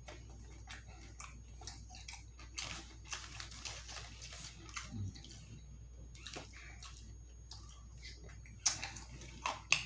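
Close-up wet chewing and lip-smacking: many short, irregular mouth clicks and smacks of someone eating, with a louder smack near the end.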